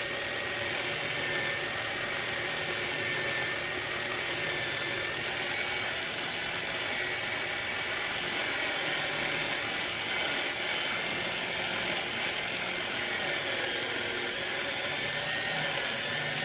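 Willard's Tipper trimmer's electric motor running steadily, spinning a pool cue shaft while a new layered tip is shaped, a steady whine that wavers slightly in pitch.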